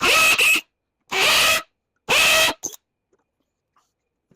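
Power drill run in three short bursts of about half a second each, drilling out a rivet in a golf cart's body tub, followed by a small click.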